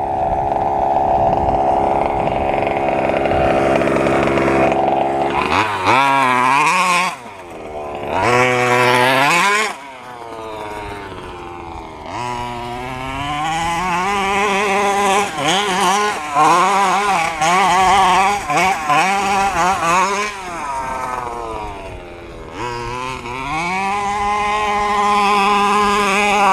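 FG 2WD stadium truck's small two-stroke petrol engine running under throttle. It holds a steady high pitch for about five seconds, then rises and falls again and again as the throttle is opened and closed, dropping briefly about seven, ten and twenty-one seconds in.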